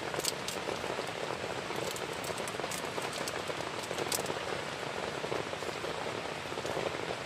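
Heavy rain falling steadily, with occasional louder single drops striking a surface.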